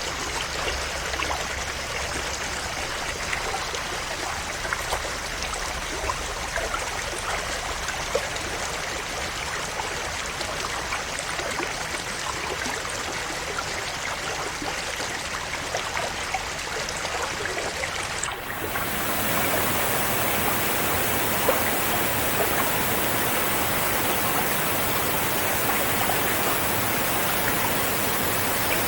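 River water flowing and babbling over stones, with small splashes. About two-thirds of the way in it dips briefly, then gives way to a louder, denser rush of water.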